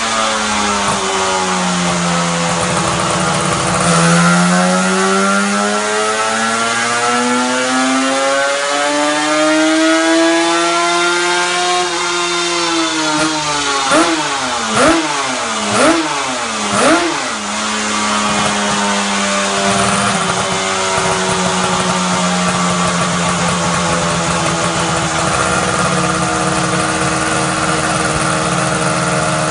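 Two-stroke motorcycle engine with its original intake, cylinder and exhaust, revved slowly up and back down, then blipped four times in quick succession about halfway through. It then settles into a steady idle.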